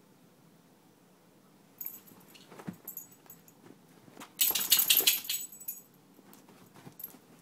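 A dog and a kitten scuffling: scattered clicks and jingling, with a loud, harsh burst lasting about a second near the middle.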